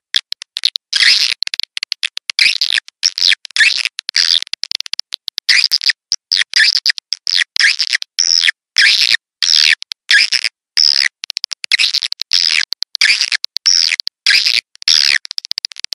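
Swiftlet lure call: rapid high twittering chirps in short bursts, about two a second, each cutting off abruptly into a brief silence. This is the looped call track played to draw swiftlets into a nesting house.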